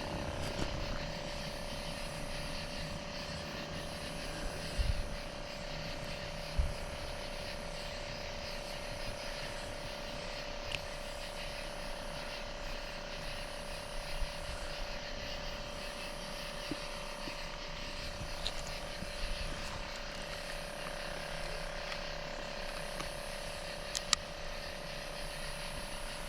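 Outdoor insect chorus: a steady high buzz that swells and fades about every second and a half, over a constant lower drone, with a few faint clicks.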